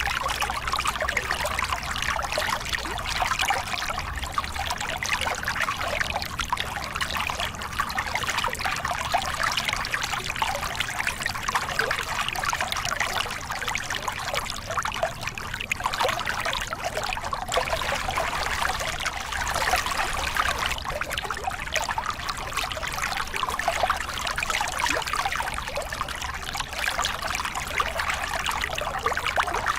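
Small river cascade: water tumbling and splashing over rocks in a steady, dense rush with a fine trickling, bubbling texture.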